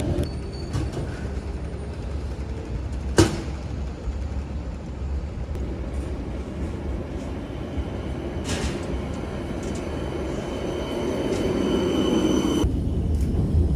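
Steady low rumble of a rail vehicle running, with a sharp click about three seconds in and a faint high squeal near the end.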